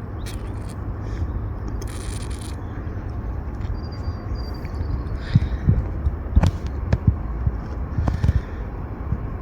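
Steady low rumble of a distant Airbus A320 jet, with several dull thumps in the second half.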